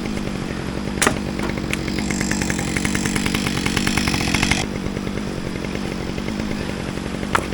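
Two-stroke chainsaw running steadily, its sound easing a little about four and a half seconds in, with a sharp knock about a second in.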